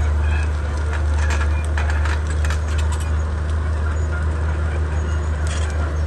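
Komatsu D31P bulldozer's diesel engine running steadily with a deep, even drone. Scattered sharp clicks and cracks come through over it, mostly in the first half and once more near the end.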